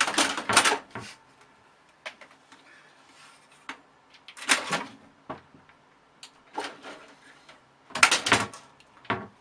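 Scattered rustling and knocks in four short clusters, with faint clicks in between.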